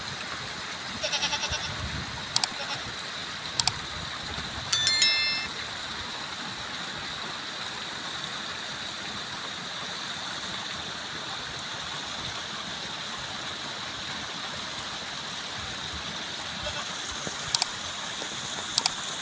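Steady rushing outdoor background noise, with a short rapid bleat-like call about a second in, a few sharp clicks, and a bright bell-like chime ringing out near five seconds.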